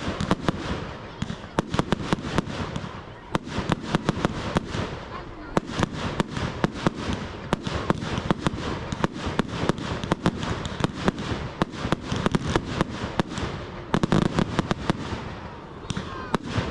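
Fireworks going off in rapid succession: continuous crackling bangs and pops, many a second, with a louder cluster about fourteen seconds in.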